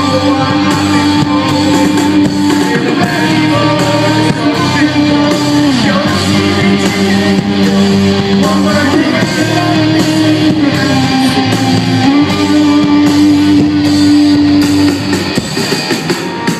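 Rock music in a passage without lyrics: guitar and drum kit under a held melody line that slides from one long note to the next, dropping out about a second and a half before the end.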